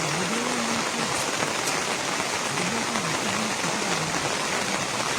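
Steady rain falling, an even hiss of drops on surfaces, with faint voices underneath.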